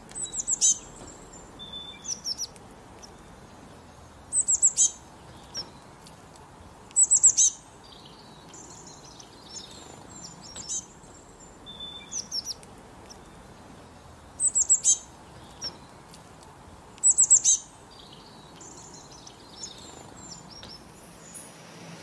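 A bird calling: quick clusters of three or four short, high, sharp notes, repeated every few seconds, with softer chirps in between.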